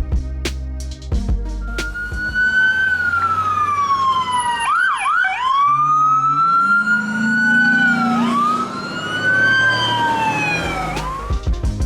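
Police car siren wailing, rising and falling in slow long sweeps, with a short quick warble about five seconds in. Background music with a beat plays under the first second or so and comes back near the end.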